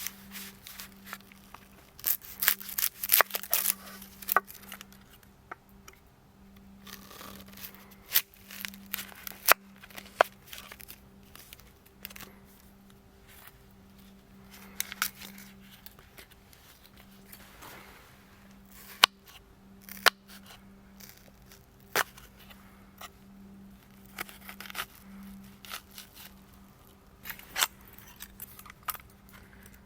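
Campfire crackling, with irregular sharp pops and snaps, a dense run of them a couple of seconds in and single loud snaps now and then, over a steady low hum.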